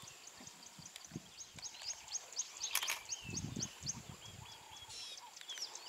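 Bush ambience: a bird calling in a fast run of short high chirps, about four a second, over a steady high whine. A sharp click comes a little before the middle, followed by a brief low rumble.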